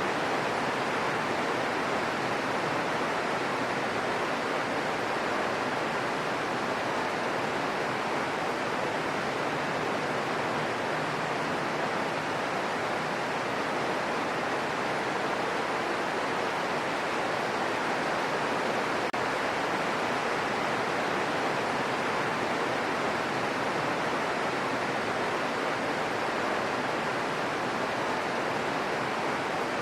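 Steady, even rain hiss with no separate drops or thunder standing out, as in a rain-sounds relaxation recording.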